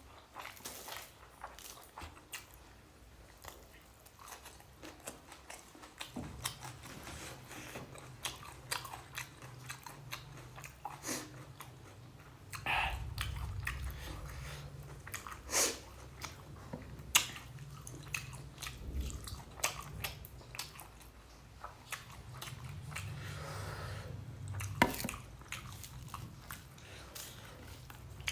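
Close-up chewing and mouth sounds of a person eating rice and egg curry, with many short wet smacks and clicks. A low hum comes in about six seconds in.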